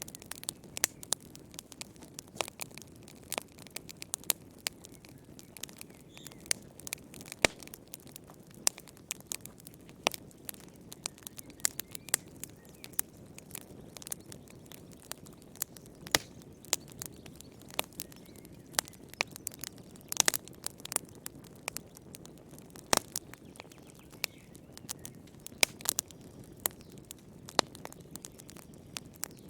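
Wood fire crackling in a fireplace: irregular sharp pops and snaps, several a second, over a soft low rush of burning.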